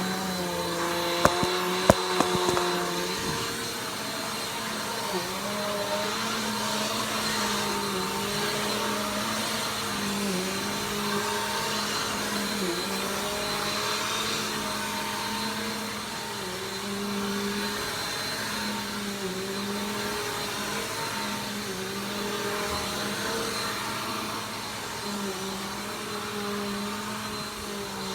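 Vacuum cleaner motor running steadily, its pitch dipping briefly every couple of seconds. Two sharp clicks come about one and two seconds in.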